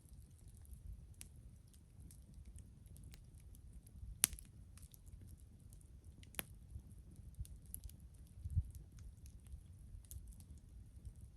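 Wood fire crackling, with irregular small pops and two louder sharp pops about four and six seconds in.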